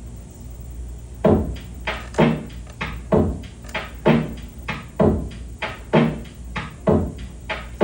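A steady percussive beat of dull knocks, starting about a second in, with about one strong hit a second and lighter hits between. It sounds like a sparse drum or hand-knock rhythm opening a song before the guitar enters.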